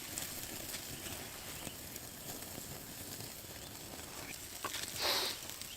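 Campfire crackling, faint scattered pops over a steady hiss. About five seconds in, a brief louder hiss.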